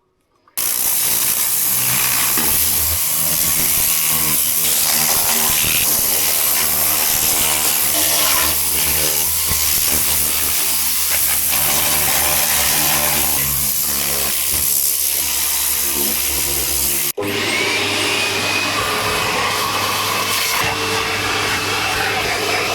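Loud detailing equipment driven by an electric motor, running steadily with a low hum under a hissing rush. It starts abruptly, and after a short cut about 17 seconds in a different machine sound carries on.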